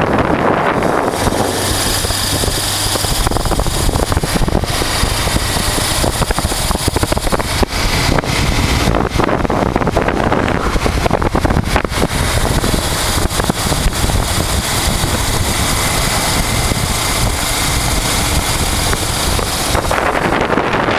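Honda Transalp's V-twin engine running under way on the road, mixed with heavy wind buffeting on the microphone. Steady and loud throughout, with scattered short knocks of wind.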